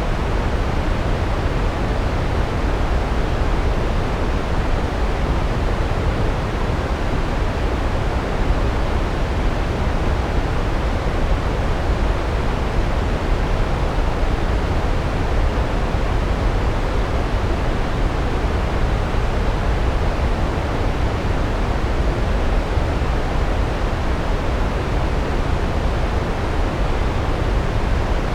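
Large waterfall: water crashing down steadily onto rocks, a constant deep rushing roar with no breaks.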